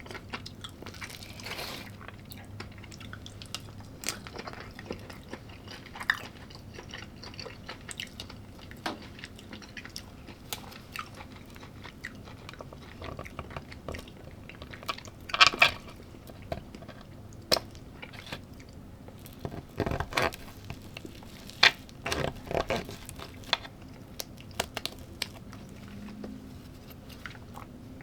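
A person chewing and biting food close to the microphone, with irregular crunches and clicks; a few louder crunches come in the middle and a little after.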